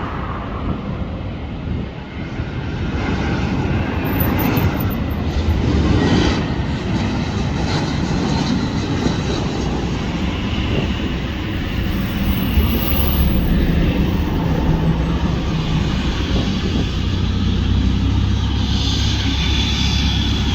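Jet engine noise from a landing Airbus A320 airliner: a steady rush that grows louder a few seconds in and then holds.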